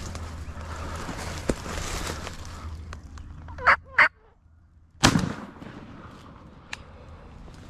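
Eastern wild turkeys calling at close range: two short calls in quick succession, then a louder, sudden call a second later.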